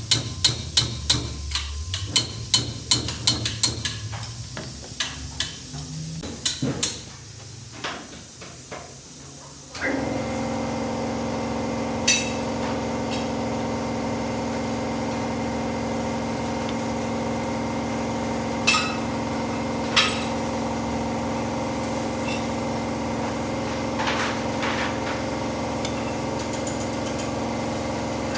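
Metal hammering, about three sharp blows a second, then a few scattered strikes. About ten seconds in, a machine starts running steadily with an even hum, and a few clinks ring out over it.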